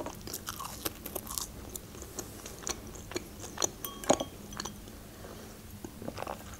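Close-miked chewing of french fries: a run of small wet mouth clicks and crunches, with one sharper click about four seconds in.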